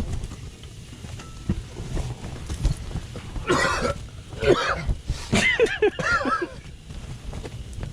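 A person coughing several times in a smoky room, the later coughs breaking into short, hoarse voiced bursts. A steady low rumble of strong wind runs underneath.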